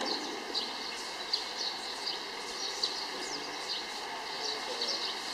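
Small birds chirping in quick, irregular short calls over a steady outdoor background hiss.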